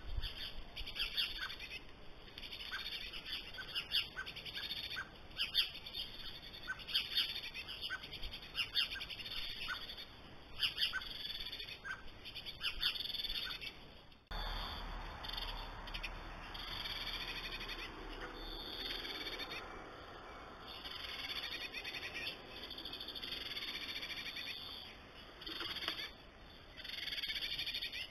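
Birds calling: short, sharp calls about twice a second, then, after a cut about halfway through, a denser and more continuous chirping.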